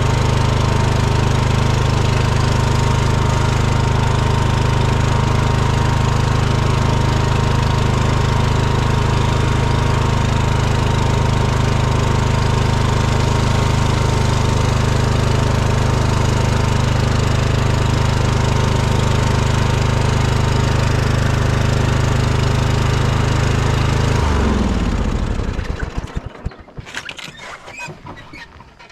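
An engine running steadily at constant speed, then switched off about 24 seconds in, its pitch falling as it winds down to a stop.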